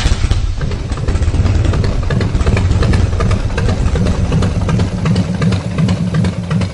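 Harley-Davidson V-twin motorcycle engine that has just caught, running loud at idle with an uneven, pulsing beat.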